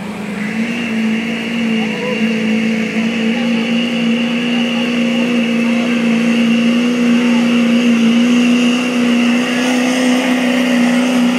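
Duramax V8 turbodiesel pickup engine held at high revs under heavy load while pulling a sled, with a high whine over it; it climbs slightly in pitch in the first second and then holds steady, getting gradually louder.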